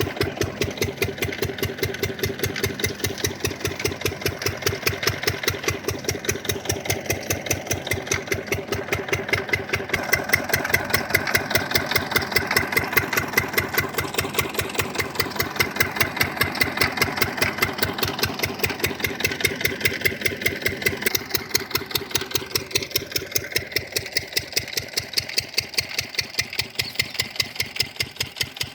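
Field Marshal 10 hp single-cylinder diesel engine running steadily, with an even, rapid beat of firing strokes, driving a 4x3 irrigation water pump.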